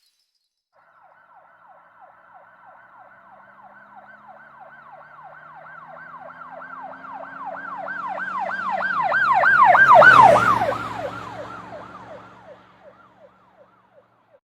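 Emergency vehicle siren in a fast rising-and-falling yelp, about three to four cycles a second, with its engine running beneath. It approaches, growing louder, passes about ten seconds in with a drop in pitch, then fades away.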